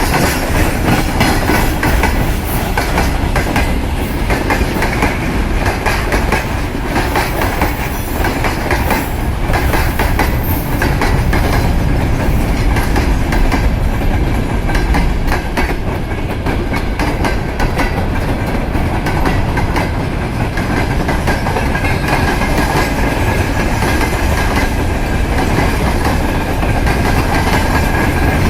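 Freight train wagons rolling past at speed, their wheels clicking steadily over the rail joints over a continuous rumble. A thin squeal from the wheels comes in during the second half.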